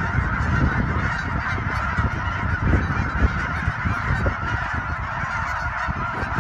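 Waterfowl honking and calling continuously, many voices overlapping in a steady chorus; it cuts off suddenly at the end.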